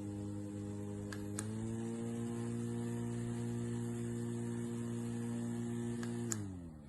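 JISULIFE handheld mini fan's electric motor and blades humming steadily. A button click about a second and a half in switches it to a higher speed and the hum steps up in pitch; near the end another click switches it off and the hum falls as the fan winds down.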